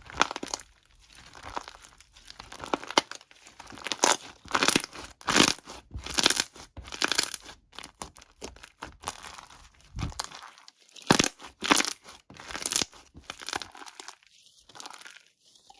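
Crinkly material being crumpled and torn in irregular crackling strokes, about one or two a second, with a few short pauses.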